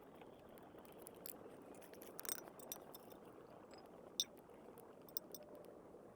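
Light clinks and ticks of metal cookware, the sharpest about four seconds in, over a soft steady hiss.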